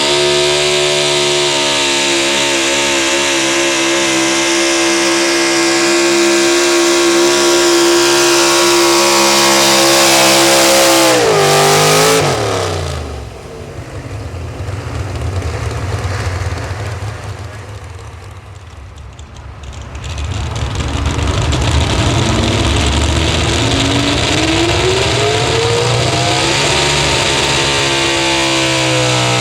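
A pulling truck's engine running at full throttle with a steady high pitch. About twelve seconds in it drops off abruptly as the throttle comes off. After several quieter seconds an engine revs back up in a rising whine and runs loud again.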